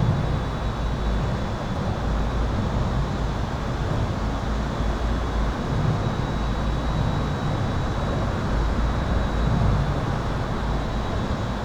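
Highway traffic heard from under an overpass: a steady low rumble and wash of tyre noise with no single vehicle standing out. A thin, steady high-pitched whine runs over it, in keeping with the electrical humming sound recorded there.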